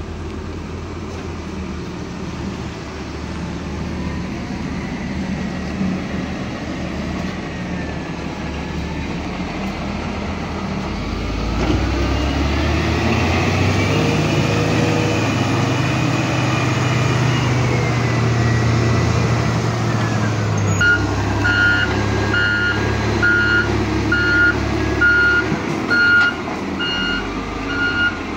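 Diesel engine of a Hino dump truck running, rising in pitch and load about a third of the way in and easing back down. After that, the truck's reversing alarm starts a steady, evenly spaced beep as it backs up.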